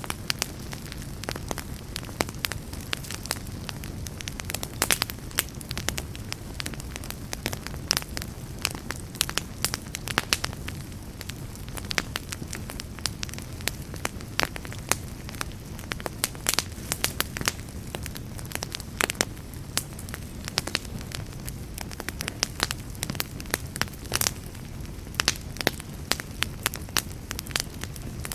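Wood fire crackling, with many sharp pops at irregular intervals over a steady low background.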